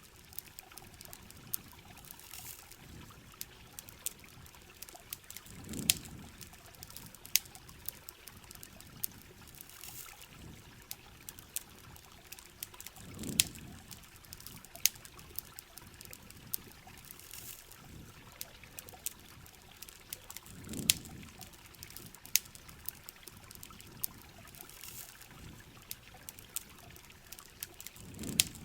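Ambience of rain with a campfire: a steady hiss of rain and trickling water, sharp crackles scattered throughout, and a low swell that comes back about every seven and a half seconds.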